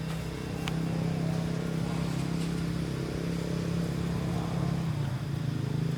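A motor vehicle's engine running steadily with a low hum, its pitch dropping slightly about five seconds in.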